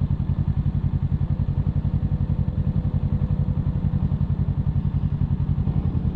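Kawasaki Ninja 650's parallel-twin engine running steadily at low revs, an even throbbing pulse that holds without rising or falling.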